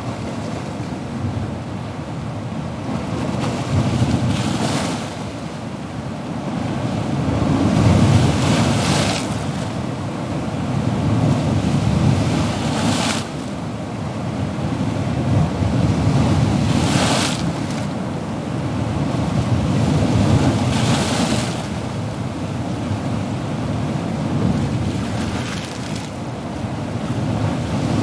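Ocean waves breaking and washing on a shore in a continuous rush that swells and ebbs every few seconds, each crest adding a brief bright hiss.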